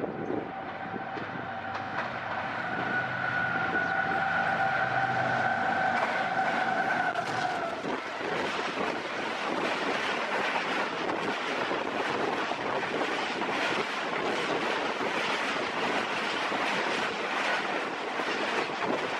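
Pakistan Railways GEU40 diesel-electric locomotive hauling an express through the station at high speed: its horn sounds steadily for about seven seconds, dipping slightly in pitch as it cuts off, then the coaches rush and rattle past over the rails.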